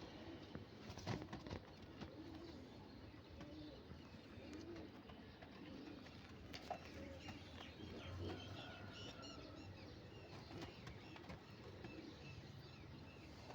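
Ambersira pigeons cooing softly and repeatedly, with a few sharp clicks or wing flaps about a second in.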